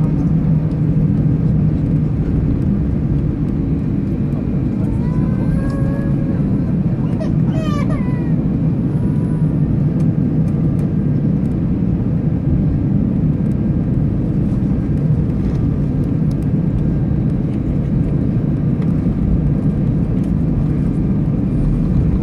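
Steady low rumble of an EasyJet Airbus A319 airliner heard from inside the cabin as it lands and rolls out, with a brief pitched sound a few seconds in.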